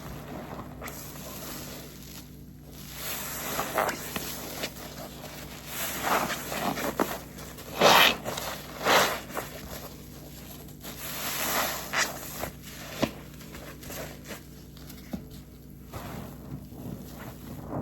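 A waffle car-wash sponge full of soapy detergent being squeezed and wrung, with wet squelching and crackling suds in uneven bursts; the loudest squeezes come about eight and nine seconds in, and another run of them around twelve seconds.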